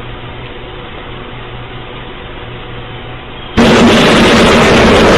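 Steady storm hiss, then about three and a half seconds in a sudden, very loud and distorted thunderclap from a close lightning strike overloading the microphone.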